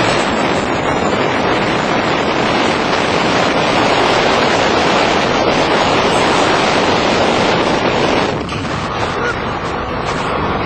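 Loud, steady wind and road noise from a vehicle at speed during a street-race run, easing a little about eight seconds in.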